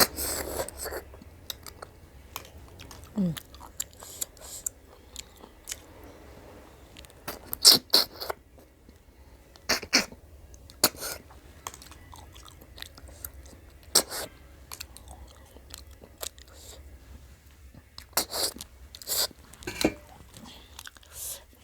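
Eating ghongi (freshwater snails): irregular sharp slurps and clicks as the meat is sucked from the shells and chewed, a second or two apart.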